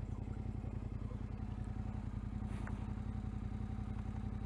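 Vehicle engine idling steadily after pulling up, an even pulsing run at constant pitch.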